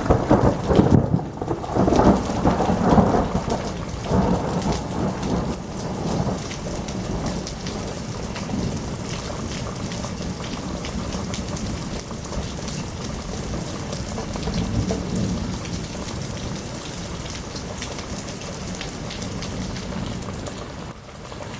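Thunder rumbling after a nearby lightning bolt, loudest in the first few seconds and fading out by about six seconds in. Heavy monsoon rain pours down steadily throughout.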